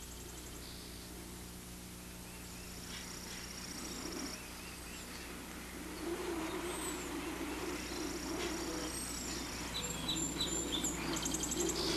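Cartoon sound effects of birds chirping and trilling over a field. About halfway in, a low wavering hum comes in and grows louder, the sound of the combine approaching.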